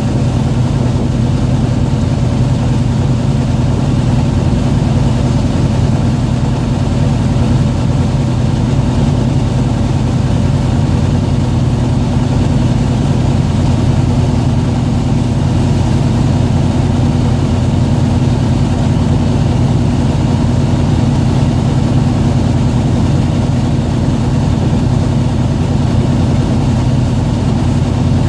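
Fishing boat's engine running steadily: a constant low drone that holds the same pitch and level throughout.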